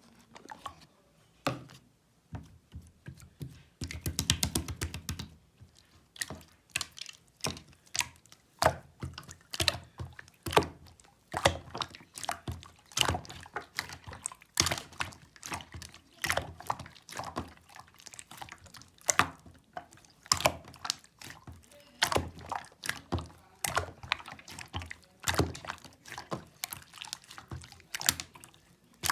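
Clear slime with jewel-like beads being squished and pressed by hand, making a continuous run of sticky clicks and wet pops. About four seconds in comes a fast rattle of many small pops close together.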